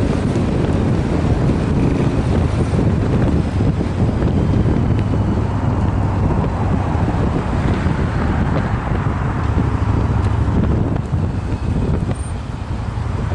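Yamaha BT1100 Bulldog's air-cooled V-twin running through LeoVince SBK aftermarket silencers: a steady, deep exhaust rumble that eases briefly near the end. Wind noise on the microphone.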